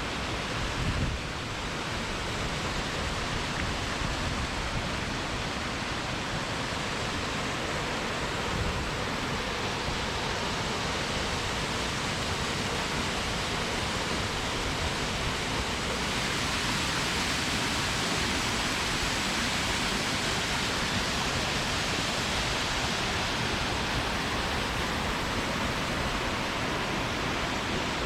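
Steady rush of a waterfall, with wind buffeting the microphone underneath. It gets a little louder and brighter about sixteen seconds in.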